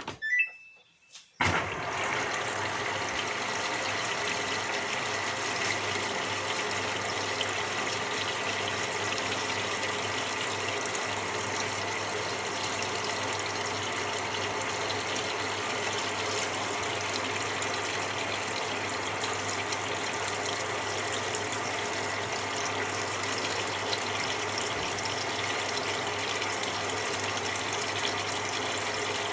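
Samsung 6.5 kg top-loading washing machine starting a cold quick cycle: a short rising beep from the control panel, then about a second and a half in cold water starts gushing into the drum with a steady rush as the tub fills.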